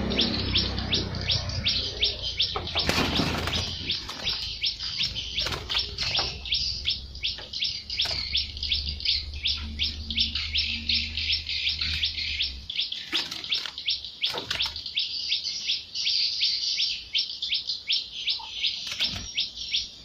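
A bird chirping in a fast, even series of short high notes, about five a second, with a few knocks mixed in. A low hum underneath stops about two-thirds of the way through.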